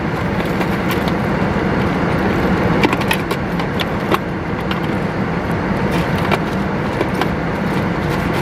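Steady, loud machine noise with a low hum, with scattered clicks and rattles of objects being handled.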